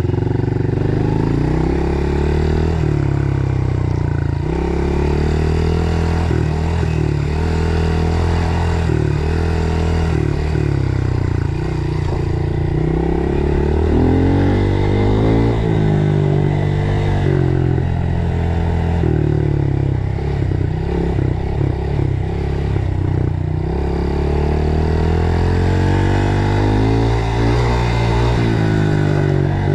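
Dirt bike engine running on the trail, its revs rising and falling repeatedly with the throttle and gear changes.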